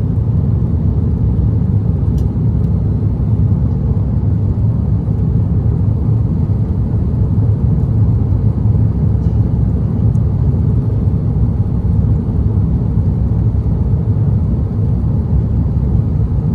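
Steady low cabin rumble inside an Airbus A330-900neo airliner in flight: engine and airflow noise, with no distinct events.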